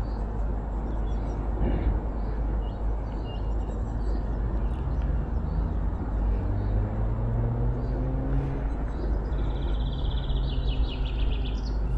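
Riding noise on a KuKirin G2 electric scooter: steady wind buffeting and road rumble, with a whine that rises slowly in pitch through the second half as the scooter speeds up.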